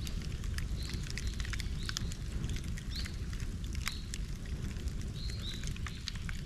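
Bonfire crackling with frequent small pops over a low steady rumble of flames, while a small bird chirps in short calls about once a second.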